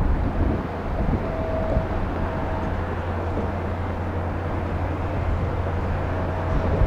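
Steady jet engine noise from an arriving Boeing 787-9 airliner, an even rushing sound over a constant low rumble.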